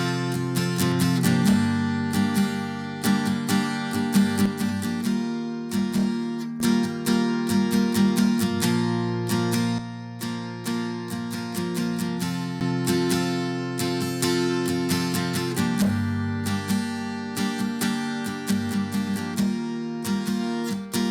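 Acoustic guitar strumming chords, a steady strum with the chord changing every few seconds.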